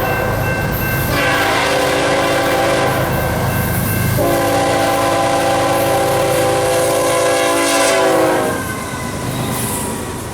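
Diesel freight locomotive's multi-chime air horn sounding two long blasts, the second dipping slightly in pitch at its end as the locomotive passes, over the rumble of its engine; the horn stops near the end, leaving the train rolling by.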